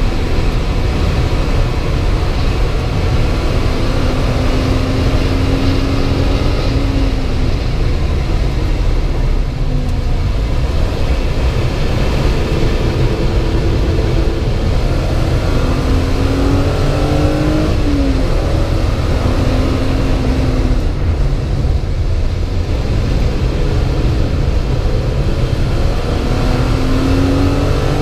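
BMW 328's straight-six engine heard from inside the cabin under hard racing load, its note climbing under acceleration and dropping back at gear changes a few times, over a heavy steady low rumble.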